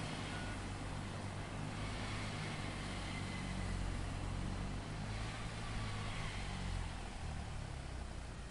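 Heavy machinery engine running steadily with a low hum, easing slightly near the end.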